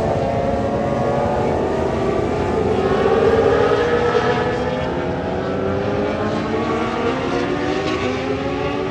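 Several vintage racing motorcycle engines running hard at once, their overlapping pitches rising and falling as they rev and pass. The sound is loudest about three seconds in.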